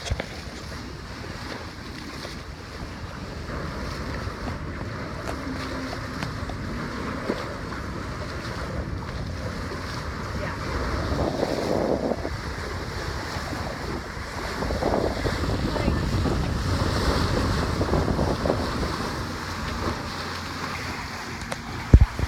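Wind buffeting the microphone over water rushing past the hull of a sailboat under sail, swelling louder twice, with one sharp knock near the end.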